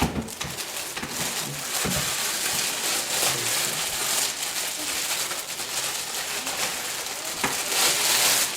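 Plastic and cardboard packaging crinkling and rustling as a liquid CPU cooler is unpacked by hand, with a couple of sharper knocks about two seconds in and near the end.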